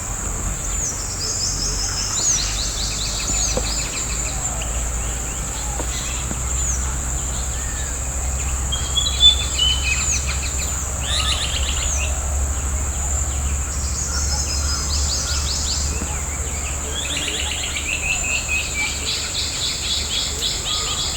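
Birds calling and trilling, with repeated short downslurred notes and fast chattering runs, over a steady high-pitched insect drone. A short sharp sound stands out about nine seconds in.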